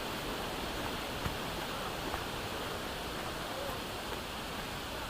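Steady rushing noise of flowing water, with a couple of faint clicks in the first half.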